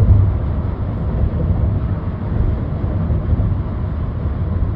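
Steady road and engine noise from a 2008 Lexus ES350 driving along, a low, even rumble.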